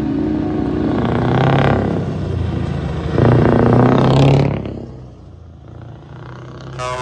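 Scania trucks driving past, engines revving up twice, the second and louder rise dropping away about four and a half seconds in. A horn sounds right at the end.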